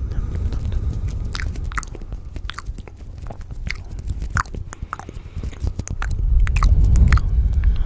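Close-miked ASMR chewing and crunching, with many sharp clicks over a low crackling rumble that swells louder near the end.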